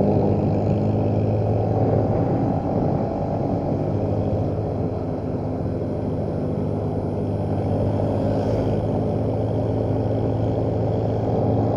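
Motorcycle engine running steadily at an even speed while riding, with road and wind noise underneath.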